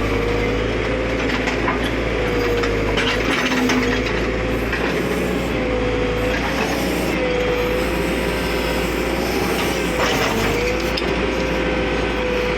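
JCB backhoe loader working: its engine and hydraulics run with a steady whine that wavers slightly in pitch over a low hum, with a few scrapes and knocks as the bucket digs, the clearest about three and ten seconds in.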